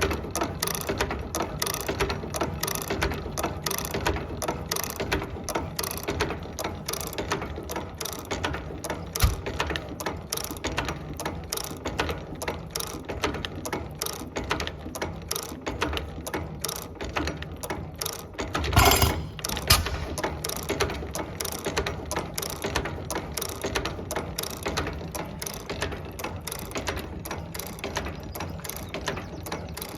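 1918 Chas Walker 'Star' portable engine running, its moving parts clattering evenly at about three beats a second, with one louder, longer burst about nineteen seconds in.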